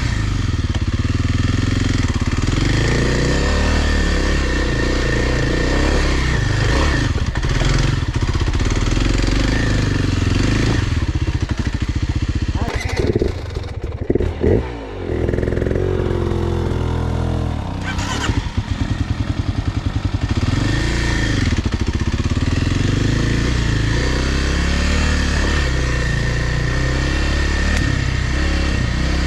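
Kawasaki dirt bike engine running under load, its revs rising and falling as the rider works the throttle and gears. About halfway through the engine drops off briefly with a few quick blips of the throttle before pulling again.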